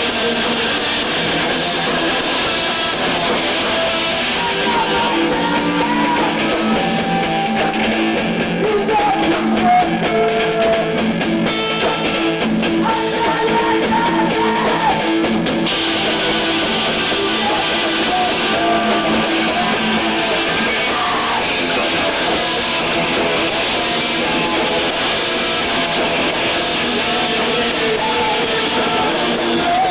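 Rock music with electric guitar and singing, thin in sound with almost no bass.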